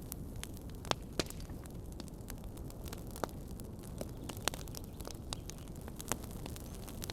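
Wood fire in a fireplace crackling, irregular sharp pops over a steady low rumble of the flames, with a handful of louder pops standing out.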